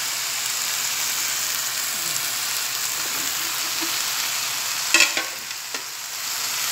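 Chicken strips sizzling steadily in a stainless steel pan as green capsicum strips are added. A sharp knock comes about five seconds in, after which the sizzle drops briefly before rising again.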